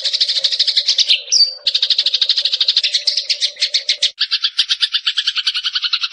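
Eurasian tree sparrow (burung gereja) giving a rapid, even chattering trill of roughly a dozen notes a second, broken about a second in by one clear whistled note. Around four seconds in the trill changes to a fuller, lower-pitched chatter. A faint steady hum sits underneath until then.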